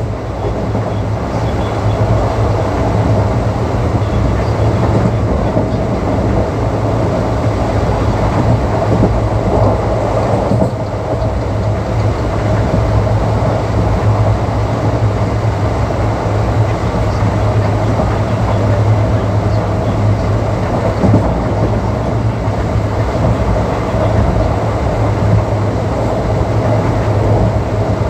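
Indian Railways ICF passenger coach running along the track at speed: a steady, loud rumble and rattle of the wheels and bogies on the rails.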